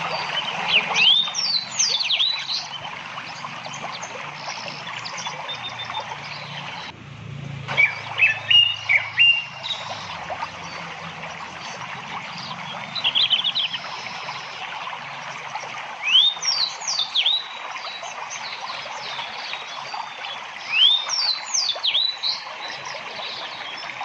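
Small birds chirping: clusters of short, high calls that sweep down in pitch, coming every few seconds, with a quick trill about halfway through, over a steady outdoor hiss.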